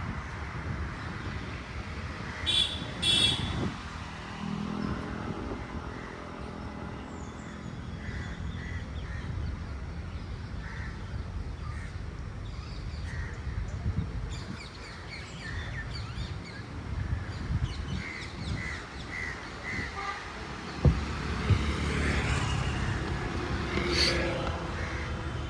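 Park ambience: crows cawing a few times and smaller birds chirping, over a low rumble of distant road traffic.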